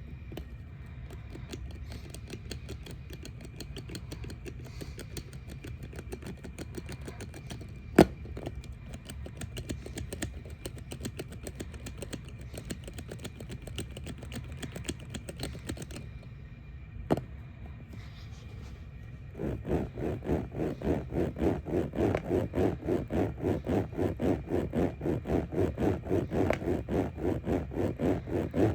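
Handling noise: fast fine clicking with two sharp knocks, then, from about two-thirds of the way in, a rhythmic scraping rub at about four to five strokes a second.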